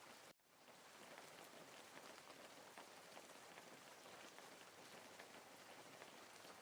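Faint steady rain: a soft hiss with scattered drop ticks. It cuts out abruptly just after the start and fades back in within about half a second.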